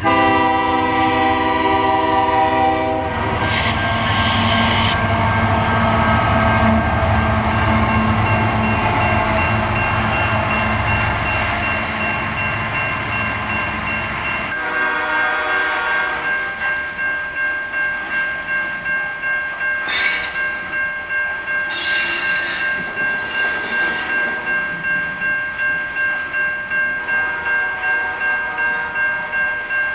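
Freight train passing close by, led by a Ferromex GE Evolution-series (Gevo) diesel locomotive. Its multi-chime horn sounds for about three seconds at the start and the diesel engine rumbles past. A short second horn blast comes about 15 s in, then the cars roll by with an even clickety-clack of wheels over rail joints and brief wheel squeals.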